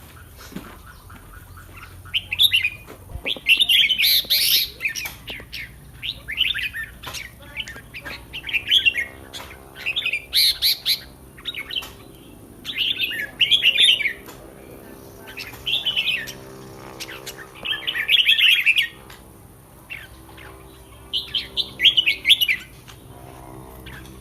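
Caged red-whiskered bulbul singing: short bright song phrases, each about a second long, repeated every two seconds or so.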